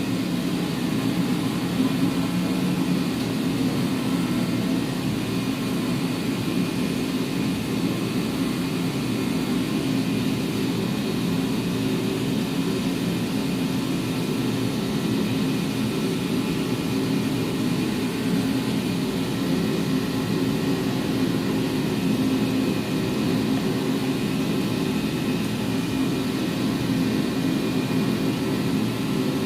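Steady mechanical whirring drone that holds unchanged throughout, with a thin high whine on top.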